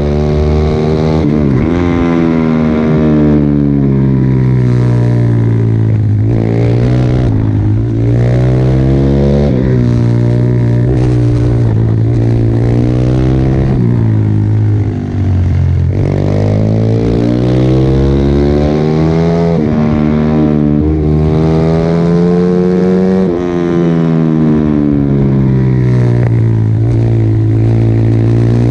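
Pit bike's small single-cylinder four-stroke engine run hard, its note climbing and dropping over and over as it accelerates, shifts and slows.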